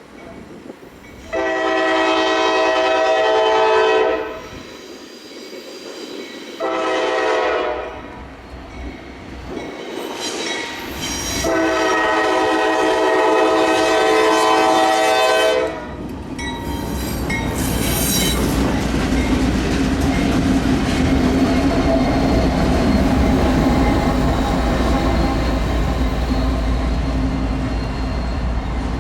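Norfolk Southern diesel freight locomotive sounding its air horn: a long blast, a short one, then another long blast. After that come the low rumble of the passing locomotives and the clatter of the train's wheels on the rails.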